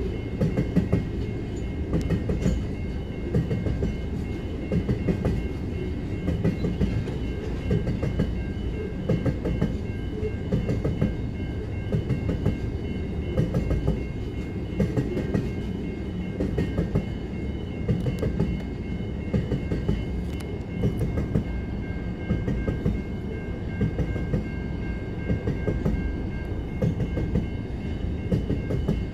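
Grain hopper wagons of a freight train rolling past close by: a steady heavy rumble with the wheels clacking over rail joints in an uneven rhythm, and a faint steady high tone over it.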